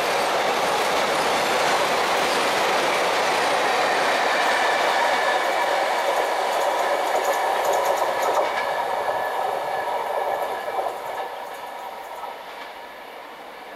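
Container freight wagons rolling past at speed: wheels clattering on the rails with a steady whine running through it. The noise dies away over the last few seconds as the end of the train passes and recedes.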